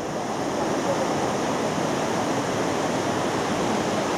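A waterfall's falling water making a steady, even rushing noise.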